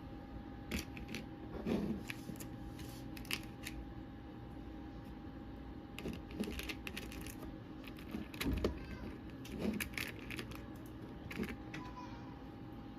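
Small hard objects being handled: scattered light clicks and clatter with a few soft thumps, over a faint steady hum.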